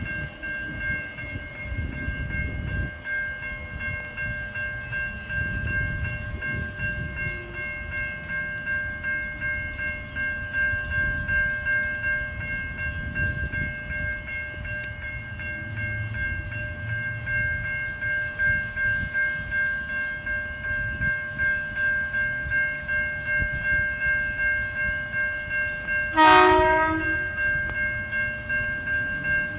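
Electric passenger train passing the level crossing: a low rumble of wheels on rail with a regular clatter. A steady high ringing runs throughout, and the train's horn gives one short blast near the end.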